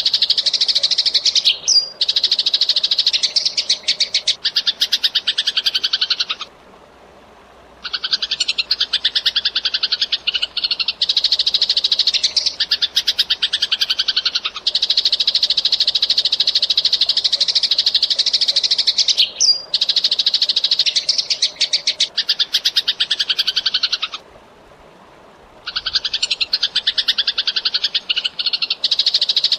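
Eurasian tree sparrow chirping in a fast, dense stream of high, rapidly repeated chirps, breaking off twice for about a second and a half.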